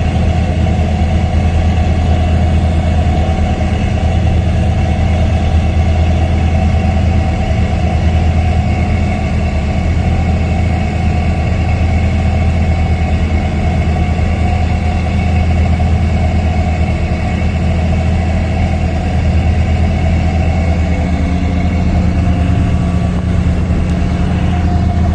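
Steady low mechanical drone, like an engine or large machine running without change.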